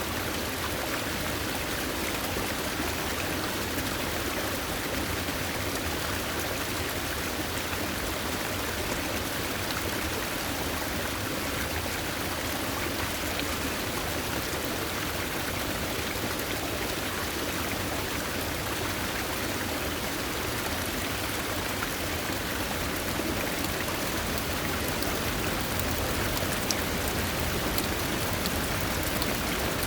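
Steady rush of a flowing stream, water running over rocks.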